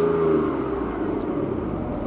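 Alfa Romeo 166's 2.5-litre Busso V6 coming off a short rev, its pitch falling back over about a second and settling to idle.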